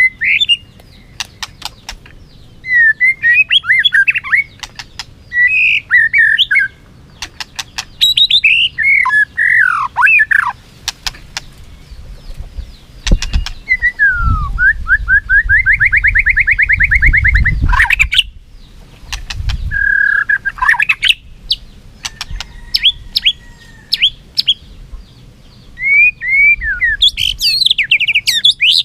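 White-rumped shama singing its loud challenge song: varied whistled phrases broken by short pauses. Near the middle comes a long, rapid trill of repeated notes, and sharp clicks fall between the phrases.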